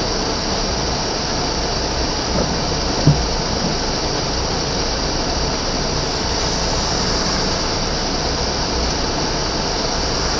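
Steady road noise inside a moving car on rain-wet streets: tyre hiss with a low engine rumble, and a single brief knock about three seconds in.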